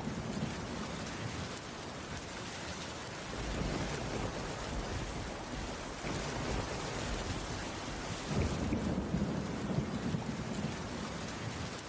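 Steady rain falling on a wooden cabin roof, an even hiss of drops, with a low rumble swelling up about eight seconds in and easing off again.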